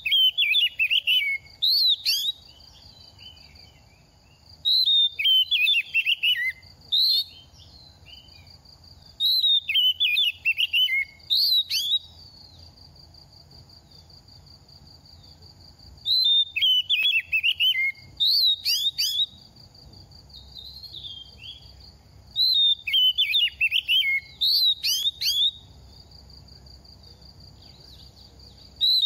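Oriental magpie-robin, a young male in moult, singing. Five bouts of fast, varied whistled phrases, each about two seconds long, come with pauses of several seconds between them.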